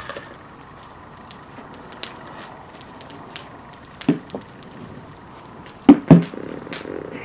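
Bonfire crackling with scattered small pops, a dull thump about four seconds in, then two loud sharp bangs in quick succession about six seconds in.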